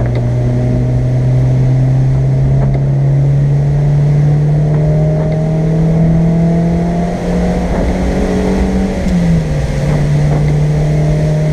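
Car engine heard from inside the cabin, pulling under power with its pitch rising slowly, then dropping sharply at an upshift about nine seconds in and running on steadily.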